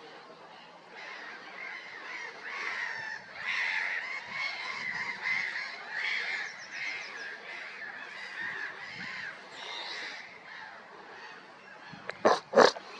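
Canada geese calling repeatedly, then two loud, sharp sounds close together near the end.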